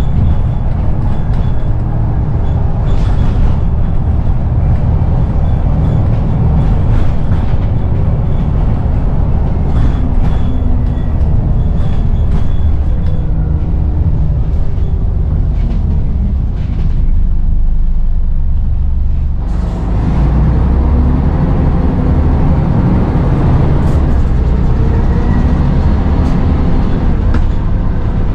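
Scania N94UD Omnidekka double-decker bus running, with a steady low engine rumble and scattered knocks and rattles. The engine eases for a few seconds just past the middle, then picks up again with a rising note as the bus accelerates.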